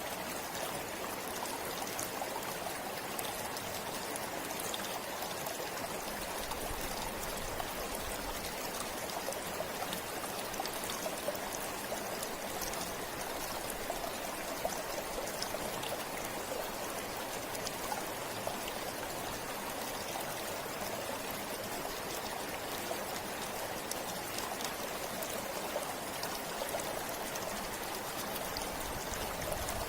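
A river flowing steadily over stones, a constant rushing of water with many small splashes and trickles in it.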